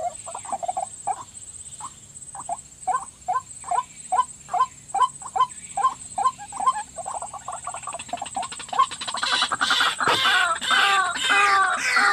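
White-breasted waterhens calling: a series of short, repeated croaking notes, a few a second, that swell about three-quarters of the way in into a louder run of overlapping calls. A steady high whine sits under it.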